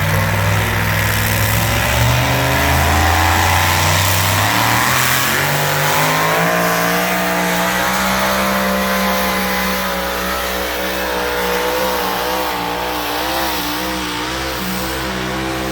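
Pulling tractor's engine running at full throttle under load. Its pitch climbs over a few seconds, then holds high and wavers slightly.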